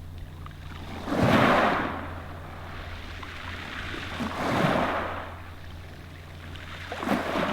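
Small sea waves washing in three times, each rush swelling and fading, about three seconds apart. A steady low hum runs underneath.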